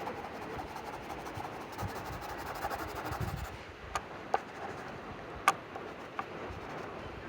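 A drawing tool scratching across sketchbook paper for about three and a half seconds, then four light, sharp clicks.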